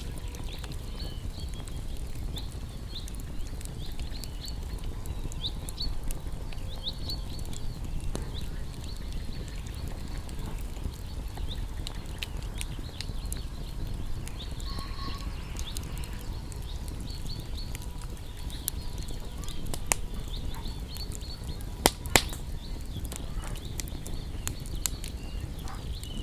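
Small birds chirping over a crackling wood fire, with a steady low rumble underneath. Scattered sharp crackles, and two loud pops in quick succession late on.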